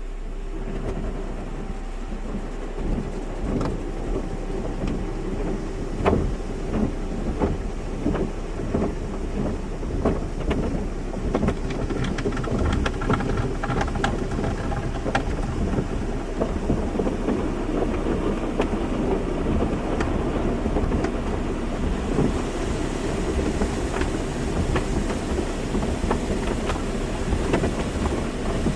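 Automatic car wash running: water pelting a car's body with a dense, irregular clatter of knocks over a steady low hum. A brighter hiss of spray comes in about two-thirds of the way through.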